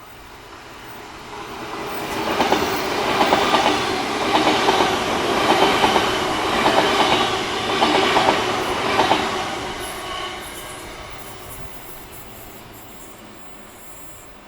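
Express metro train passing through a station without stopping. A rumble builds over the first couple of seconds, then wheels clack over the rail joints in pairs about once a second for several seconds. After about ten seconds it fades away.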